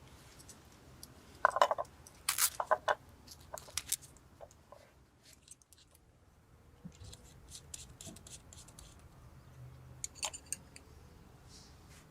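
Sharp clicks, snips and scraping from hand handling. The loudest cluster comes one and a half to three seconds in, with lighter ticks later and another short cluster about ten seconds in.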